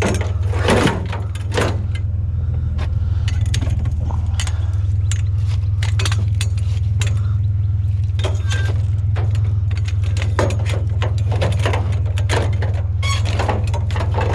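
Truck engine idling with a steady low hum, with scattered light metal clinks and rattles from scrap metal being handled.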